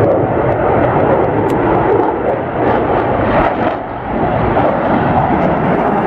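Airplane at an airshow, its engines making a loud, steady noise that dips briefly about four seconds in.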